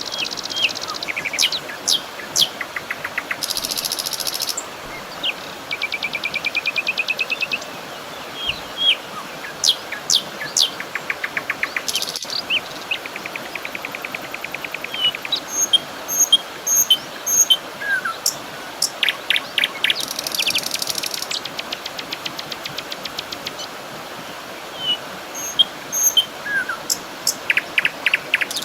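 Several birds chirping and singing over a steady background hiss. Short sharp calls mix with rapid trills and some high, buzzy notes.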